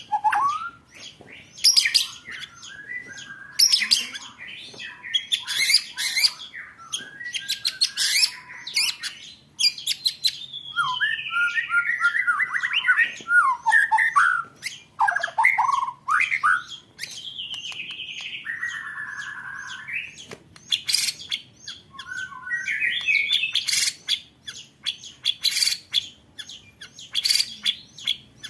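Songbirds singing in rapid-fire rattles of sharp ticks, alternating with whistled phrases that slide up and down in pitch. The rattles are the fast 'roll tembakan' bursts prized in Indonesian song-competition birds.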